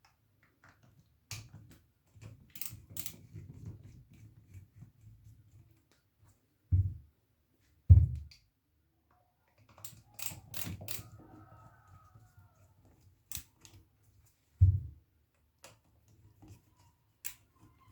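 Handwork on a receiver's filter-capacitor mounting clamps: scattered small clicks and taps from loosening the clamp screws and lifting the metal clamps out, with three dull low thumps as parts are set down or knocked.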